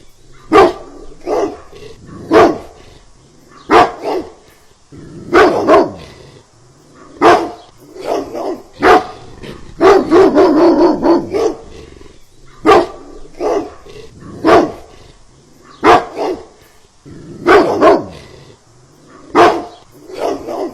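A dog barking over and over: sharp single barks every second or two, with a couple of longer runs of barking.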